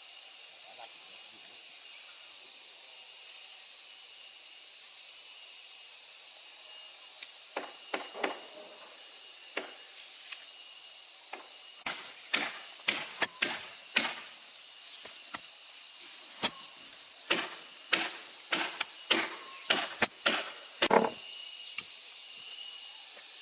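A series of sharp strikes of a tool on wood, starting slowly about a third of the way in, then coming about twice a second before stopping near the end. A steady high hiss runs underneath.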